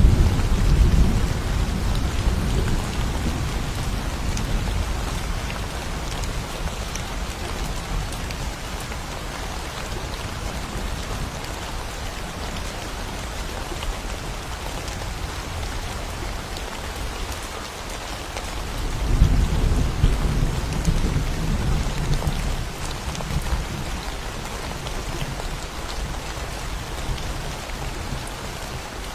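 Steady rain with thunder: a deep rumble fades away over the first few seconds, and another roll of thunder comes in about two-thirds of the way through and dies down a few seconds later.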